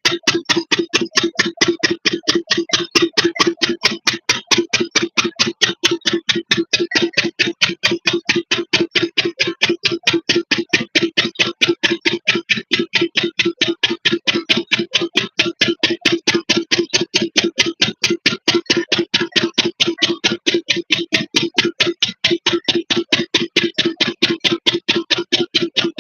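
Single-cylinder 8 hp diesel engine driving a water pump, running steadily at a slow, even beat of about four to five exhaust firings a second.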